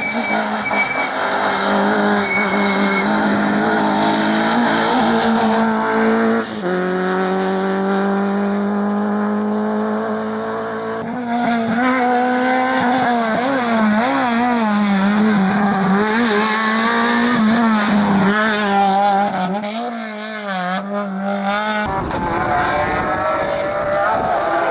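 Rally cars at full throttle on a stage, engines at high revs with tyre squeal. Each engine note first holds steady, then climbs as a car accelerates, then wavers up and down as the throttle is worked through corners, with sudden changes where one car gives way to the next.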